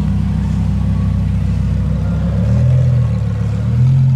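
A car's engine running loudly at low revs, its note stepping up in pitch about two and a half seconds in and again near the end as the revs climb.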